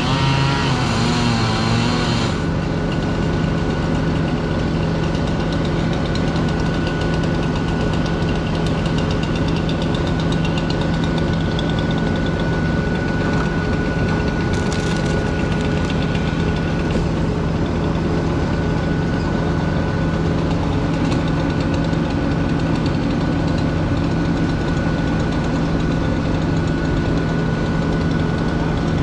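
A large engine idling steadily, with a constant low hum and a thin steady whine above it; a brief wavering sound rides over it in the first two seconds.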